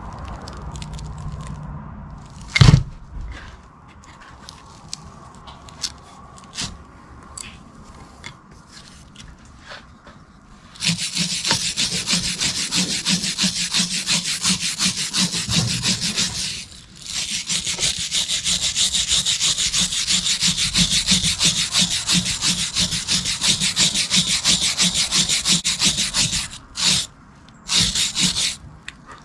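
Scattered light clicks and one sharp knock, then fast back-and-forth scraping strokes, like sawing or brushing, in two long spells broken by a short pause.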